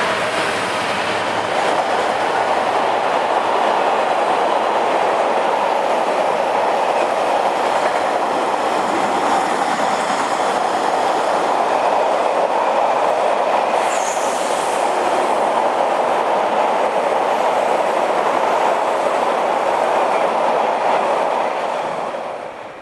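A train running through the station: steady, loud wheel-and-rail noise, with a brief high squeal partway through. It fades away near the end.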